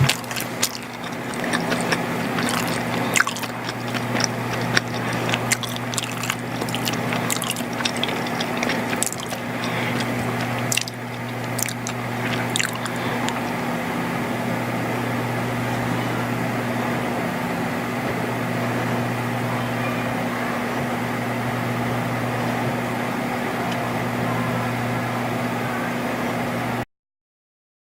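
Close-miked wet, squishy chewing of macaroni and cheese, with many sharp mouth clicks and crackles in the first half. Then only a steady hiss with a low hum, which cuts off suddenly near the end.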